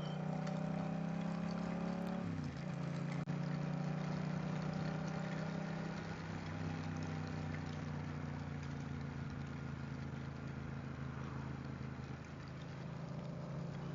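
Motorcycle engine running at a steady cruise, its hum dropping in pitch about two seconds in and then holding steady.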